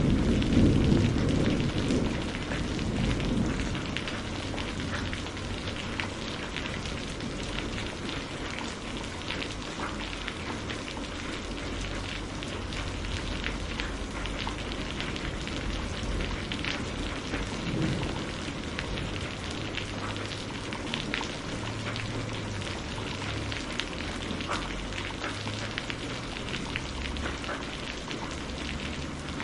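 Steady rain falling, with close drops pattering on a surface. A low thunder rumble at the start fades away over the first few seconds.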